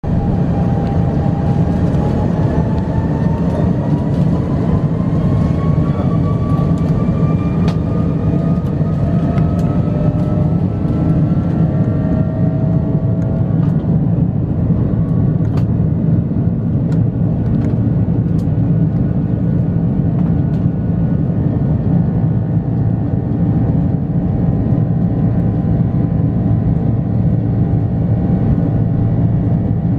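Airbus A330-300 jet engines running with a dense, steady rumble, while a whine rises in pitch over roughly the first twelve seconds and then holds steady as the engines spool up for the takeoff roll. Faint scattered ticks and rattles sit over the noise.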